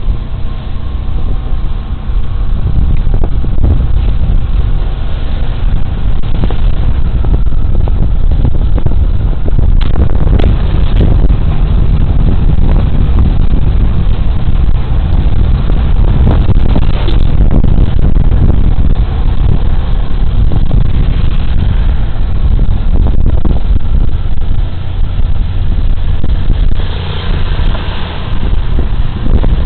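Suzuki Burgman Street 125 scooter's single-cylinder engine running on the move, mostly covered by heavy wind buffeting on the body-worn camera's microphone. The engine hum is clearest in the first couple of seconds, before the wind noise grows loud.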